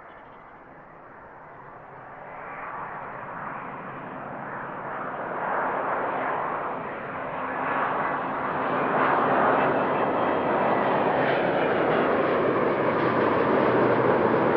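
Jet aircraft approaching: its engine noise grows steadily louder over about ten seconds, with a faint whine in it, then holds loud as it comes close.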